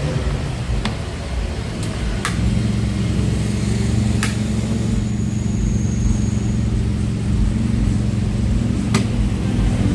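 Car engine running steadily, its low hum growing louder a couple of seconds in, with a few sharp clicks over it.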